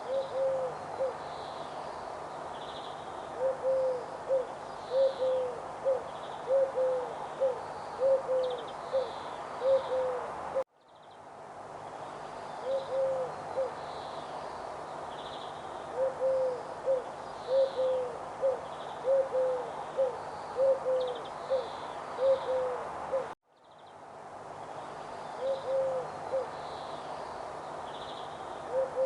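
A bird's low hooting calls, repeated in short runs, over a steady hiss, with fainter high chirps from other birds. The sound cuts out and fades back in twice, and the same sequence of calls repeats each time.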